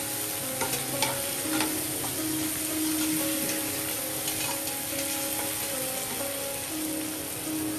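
A masala of tomatoes, green chillies and spice powders sizzling steadily in hot oil in a frying pan while being stirred, with a steel slotted spoon scraping through the mixture. The spoon knocks against the pan a few times in the first two seconds.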